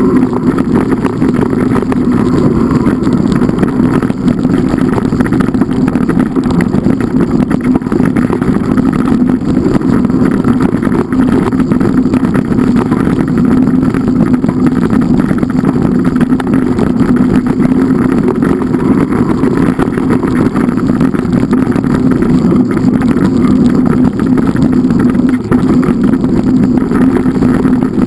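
An engine running loudly and steadily, with no change in speed.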